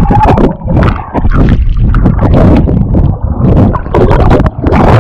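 Water splashing and sloshing right against the camera's microphone as someone swims and thrashes in shallow sea water: a loud, churning rumble broken by many sharp splashes.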